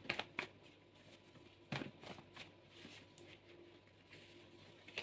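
Tarot cards being handled and laid out: a few soft taps and clicks of cards, the clearest just under two seconds in, with faint rustling between.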